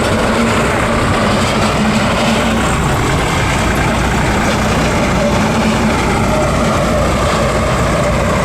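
Tractor's diesel engine running steadily and loud, with an even hum.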